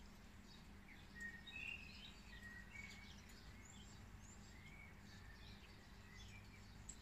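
Faint birds chirping and twittering in many short, quick calls, the busiest stretch about a second and a half in, over a low steady background hum.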